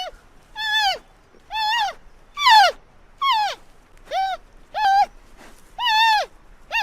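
An animal giving a run of about eight short, high-pitched calls, a little under a second apart, each one rising, holding briefly and then dropping in pitch.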